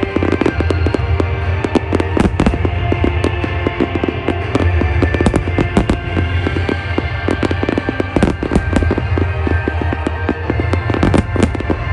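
A dense, unbroken fireworks barrage: aerial shells bursting and crackling many times a second. The show's music plays underneath.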